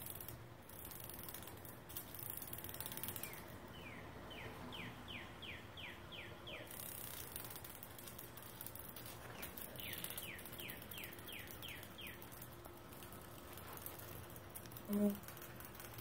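A songbird sings two runs of quick down-slurred whistled notes, about three a second, over a faint outdoor hiss. A brief low squeak comes near the end.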